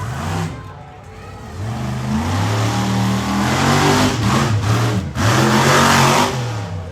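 Monster truck engine revving hard, its pitch climbing in repeated pushes, with a brief let-off just after five seconds before it revs up again.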